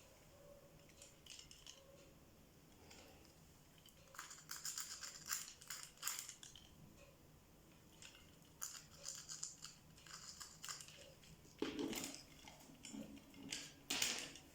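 Small hand work on the necklace repair: bursts of light scraping and clicking, then two louder knocks near the end.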